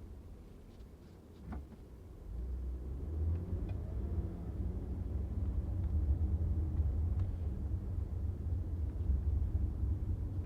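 Car driving: a low engine and road rumble, quieter for the first two seconds, then building as the car speeds up, with a faint rising engine tone about three to four seconds in. A single light click about a second and a half in.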